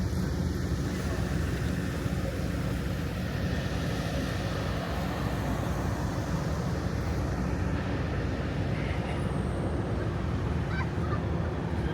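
Steady low rumble of car engines idling.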